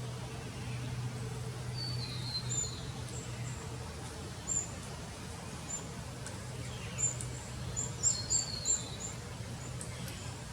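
Small birds calling: thin, high-pitched chirps scattered through, with two short descending twittering phrases, about two seconds in and again about eight seconds in, where a quick run of chirps is the loudest part. A low steady hum runs underneath.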